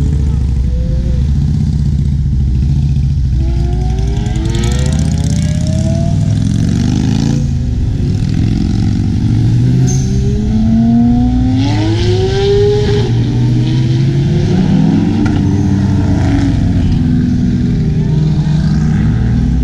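Sports car engines revving and accelerating, with several rising sweeps in pitch over a steady low engine rumble.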